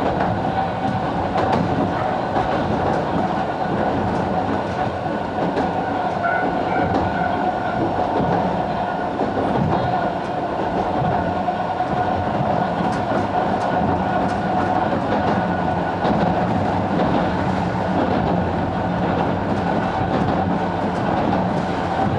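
Sangi Railway Hokusei Line 270-series narrow-gauge (762 mm) electric train running between stations, heard from inside the car: a steady rumble and clatter of wheels on rail with a constant whine.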